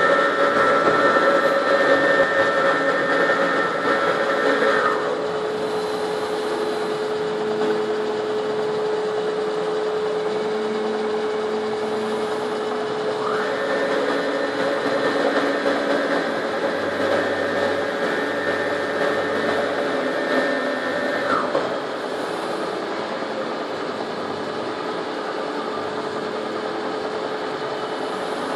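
Monti M15 moving-column CNC milling machine running, a steady machine hum under a motor whine. The whine winds down and stops about five seconds in, spins back up about eight seconds later, and winds down again about eight seconds after that.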